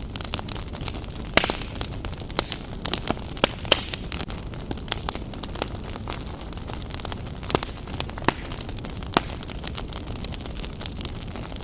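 Wood fire burning in a fireplace: logs crackling, with a steady low rumble of flame and irregular sharp pops, several of them much louder than the rest.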